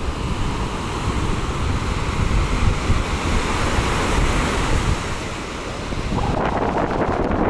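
Strong wind buffeting the microphone over sea surf breaking on the shore in a small storm. The upper hiss thins out about six seconds in.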